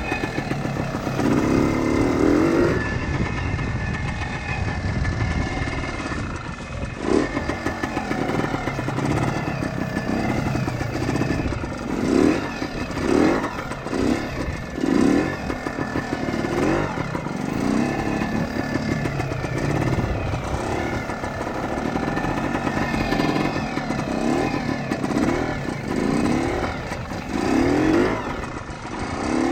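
Kawasaki KT250 two-stroke single-cylinder trials motorcycle engine running under way, its revs rising and falling again and again in short bursts of throttle.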